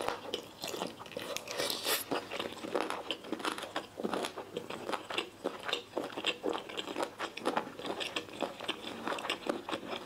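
Close-miked chewing of lemon sour-spicy boneless chicken feet: a steady run of small, irregular crunches and wet clicks as the springy tendon is bitten through.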